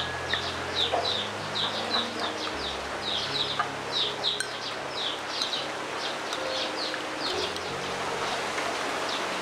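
Birds chirping: rapid short high-pitched calls, several a second, that stop about three-quarters of the way through, over a steady low hum and hiss.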